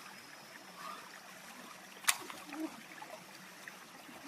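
Riverside ambience: a steady wash like running water, with a few short low calls and one sharp click about two seconds in.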